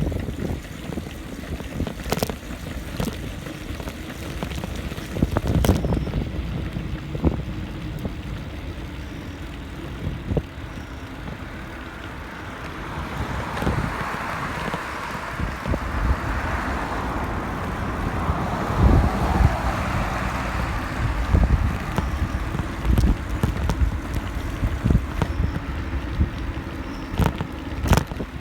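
Wind buffeting the microphone while riding a bicycle, with tyre rumble and scattered knocks and rattles from bumps in the trail. A broad hiss swells up about halfway through and fades again.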